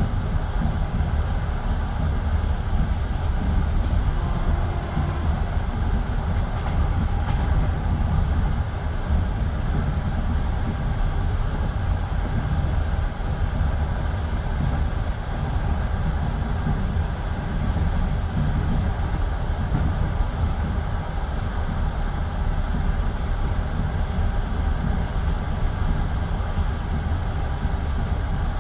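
Passenger train running steadily, heard from inside the carriage: a continuous low rumble of wheels on the rails.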